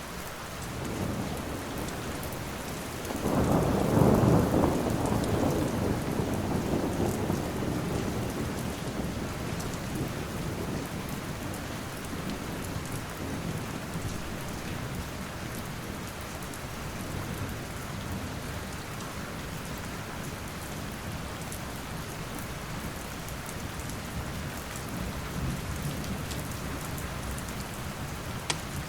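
Steady rain with a roll of thunder about three seconds in that swells and then slowly fades over several seconds. Faint crackles of a wood fire now and then, with one sharper pop near the end.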